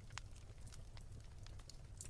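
Wood fire crackling softly: irregular sharp pops and snaps over a low steady rumble, one louder snap just after the start.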